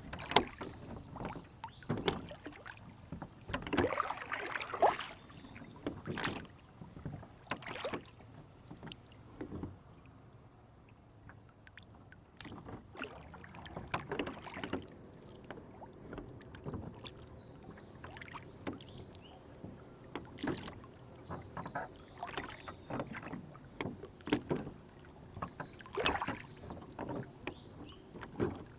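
Wooden rowboat on a lake: oars and small waves splashing and knocking against the hull in irregular bursts, with a quieter stretch about ten seconds in.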